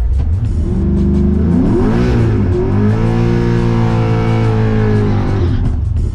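Car engine revving: the pitch climbs, wavers up and down, then holds high before cutting off near the end, with music faintly underneath.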